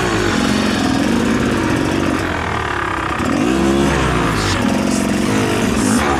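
Rieju MR300 enduro dirt bike's engine, its revs rising and falling several times as the throttle is opened and closed.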